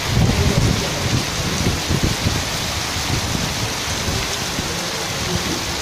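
Heavy rain falling in a steady, dense hiss, with low rumbling in the first couple of seconds.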